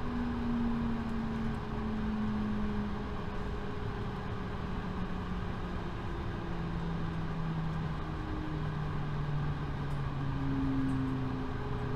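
Steady cabin noise inside an Airbus A220-300 on the ground with its Pratt & Whitney geared turbofan engines running at idle: an even rumble with a few low hums that slowly drift in pitch.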